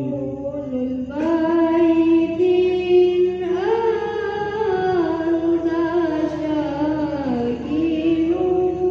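A man's voice chanting in long held notes that slide slowly up and down, in the ornamented style of Islamic devotional recitation. New phrases begin about a second in and again about three and a half seconds in.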